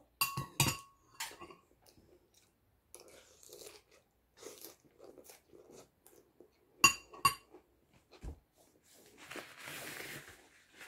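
A person chewing a mouthful of crunchy lettuce-and-noodle salad, in soft irregular crunches. Metal cutlery clinks against a glass salad bowl with a short ringing note twice at the start and twice again about seven seconds in.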